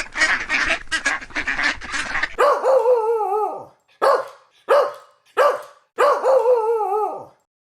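Waterfowl calling rapidly, about six calls a second, until a sudden switch about two seconds in to a different animal. That animal gives two long calls with a wavering pitch, with three short calls between them.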